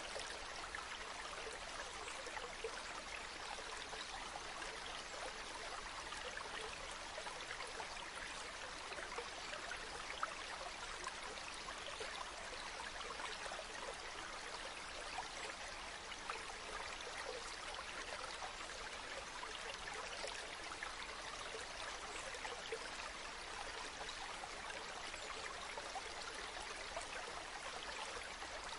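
Waterfall running steadily, a constant hiss of falling and splashing water with small flickers of splashes.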